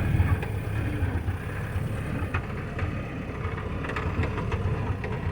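A 1959 Jeep's engine running steadily as it drives off-road through sagebrush and over rocks, with scattered knocks and rattles.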